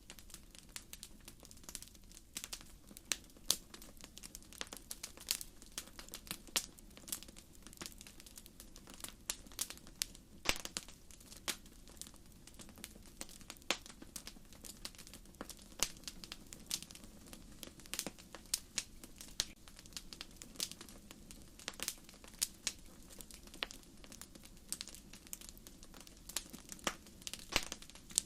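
Wood fire crackling: logs popping and snapping in many short sharp, irregular cracks over a low, soft hiss of burning.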